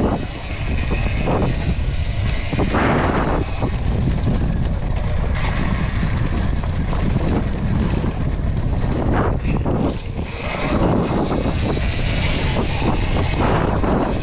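Sur-Ron Ultra Bee electric dirt bike being ridden: a steady rumble of wind buffeting the microphone with tyre and chassis noise, rising and falling in irregular surges.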